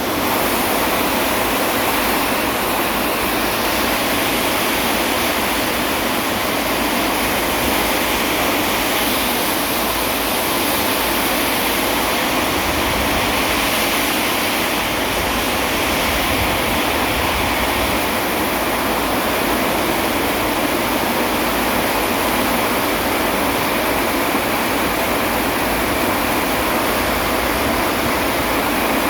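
Steady rain falling, an even rushing hiss with no thunder claps.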